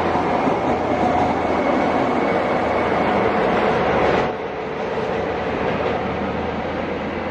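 A train running past at the platform: a steady loud rumble with faint whining tones. The sound drops abruptly about four seconds in and carries on quieter.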